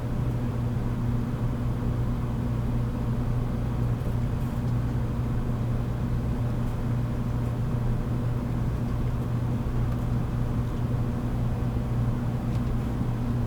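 Steady electrical hum of a 783-series AC electric train standing at a station, its onboard equipment running with a constant low tone and no motor or wheel noise rising or falling.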